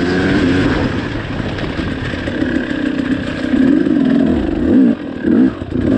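2019 KTM 300 TPI single-cylinder two-stroke dirt bike engine running under riding load, its revs rising and falling with the throttle. About five seconds in the throttle is shut briefly, then blipped open again in a short loud burst.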